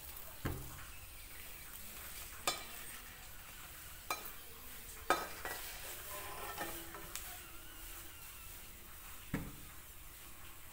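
Pani puri shells frying in oil in a kadai, sizzling quietly throughout. A steel spoon knocks and scrapes against the pan about five times as the puris are turned and lifted out.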